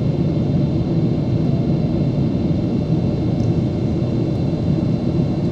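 Steady in-flight cabin noise of a Boeing 777-300ER: a loud, even rumble of engines and airflow with a faint steady high whine.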